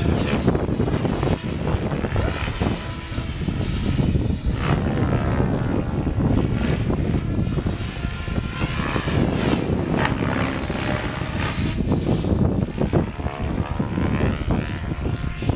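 Radio-controlled model airplane's motor and propeller whining high in flight, the pitch wavering a little, over heavy wind buffeting on the microphone.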